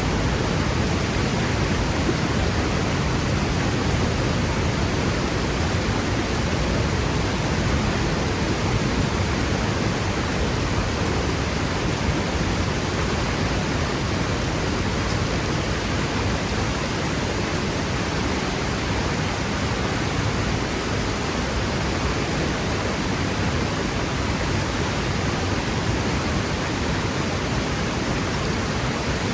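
Waterfall crashing into its plunge pool: a steady, full roar of falling water, heaviest in the low range, with no change throughout.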